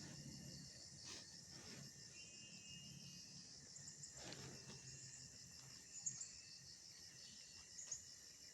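Faint, steady chirping of insects, likely crickets, in a fast even pulse, with two brief high chirps or clicks about six and eight seconds in.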